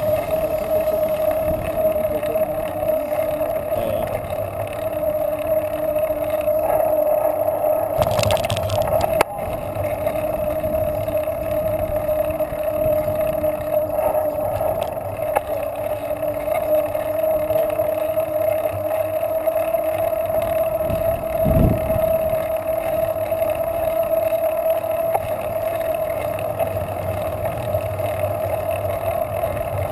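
Steady droning whine over a low rumble, the running noise of riding on the road. A brief rush of noise comes about eight seconds in, and a single low thump a little past twenty-one seconds.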